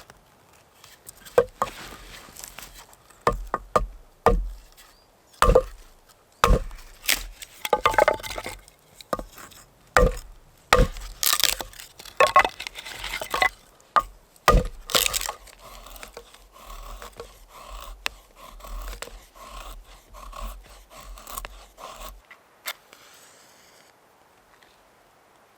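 Wood being worked by hand with a blade: a series of sharp knocks and cracks, then a run of lighter, regular scraping strokes that stop near the end.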